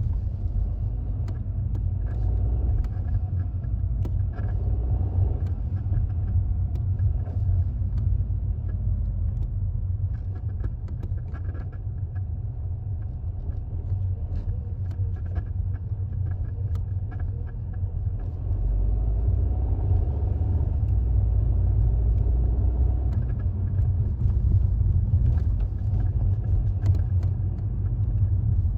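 A 2016 Audi TT Mk3 being driven on light throttle: a steady low rumble with the engine note rising and falling and faint intermittent clicking chatter, the noise the owner traced to a bad transmission mount. It gets louder about two-thirds of the way through.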